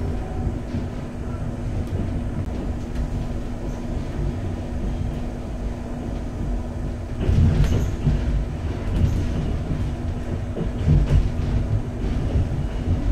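Passenger train running on its rails, heard from inside the carriage: a steady low rumble with a constant hum. It grows louder about seven seconds in, with a few knocks, and again briefly near eleven seconds.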